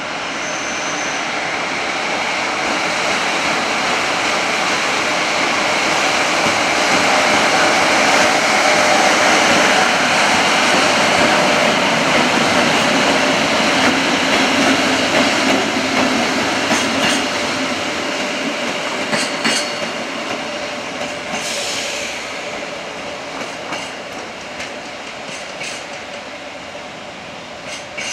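JR Freight EF66 electric locomotive, with an unpowered EF65 locomotive and a freight wagon in tow, passing at speed. Wheel and running noise with a steady hum builds to a peak partway through, then fades as the train draws away, with a run of sharp clacks from the wheels crossing the track in the later part.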